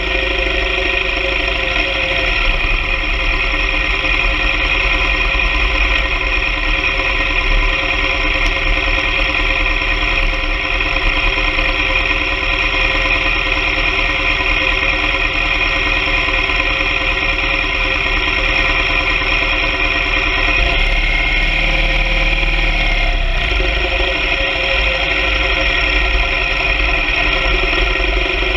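Motorcycle engine running at a steady speed while riding, with wind rumbling on the microphone.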